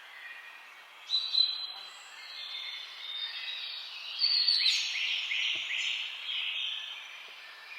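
Several songbirds singing and chirping over a steady outdoor hiss. A loud run of chirps comes about a second in, and a series of quick falling notes follows from about four seconds in.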